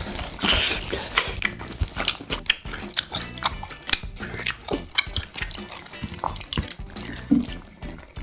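Close-miked eating sounds: wet chewing and mouth clicks, with the handling of perilla leaves as wraps of spicy marinated duck are made and eaten. The sound is a dense run of quick, sharp clicks and crackles.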